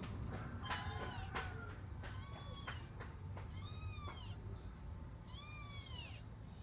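A domestic cat meowing four times, each meow high-pitched and arching up then down in pitch.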